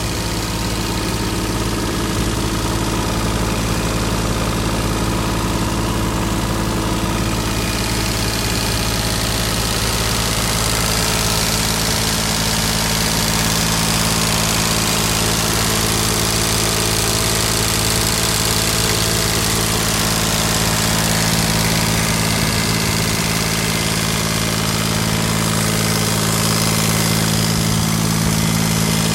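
Kubota D600 liquid-cooled three-cylinder diesel in a G5200 garden tractor, running steadily. A hiss in the upper range grows louder about eight seconds in.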